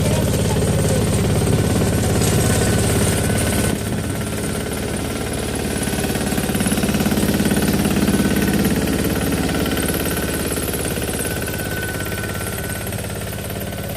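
Tractor diesel engine running with a rapid, steady clatter. The sound drops abruptly about four seconds in, then swells and eases off again.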